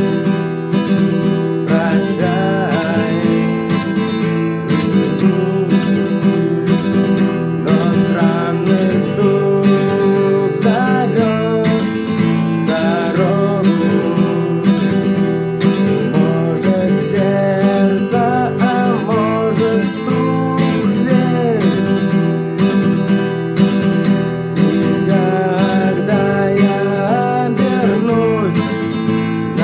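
Acoustic guitar strummed in a steady rhythm, with a melody line weaving over the chords: an instrumental stretch of the song.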